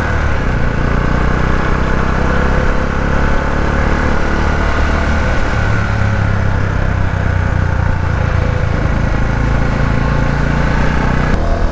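Small Herald motorcycle engine running steadily as the bike is ridden, with a rush of wind over it.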